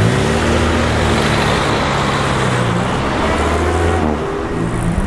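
A motor vehicle's engine running under way with a steady rushing noise over it. Its note rises slowly and then changes about four seconds in, as with a gear change.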